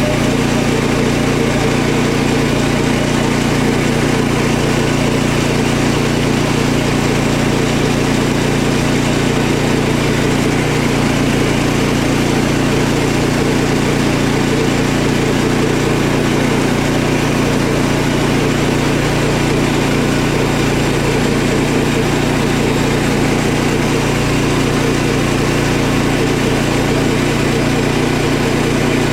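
Portable sawmill running steadily under load, its engine and blade sawing a pine log lengthwise into lap siding, with water lubricating the blade.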